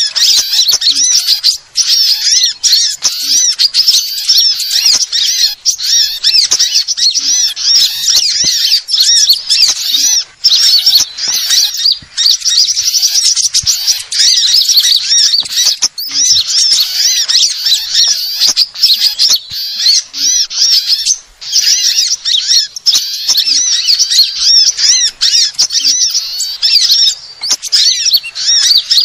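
Dense, high-pitched chirping and twittering of small birds, many rapid overlapping calls that run almost without a break. It is a bird-lure recording of sunbird ('kolibri') calls, played to draw the birds in.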